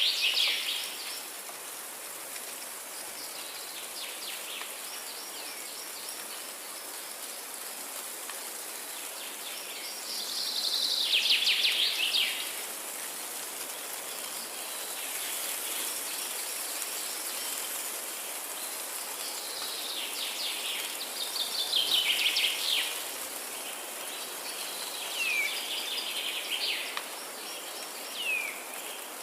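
Forest ambience: a songbird sings short phrases of rapid notes that fall in pitch, one about every ten seconds, over a steady high hiss of insects.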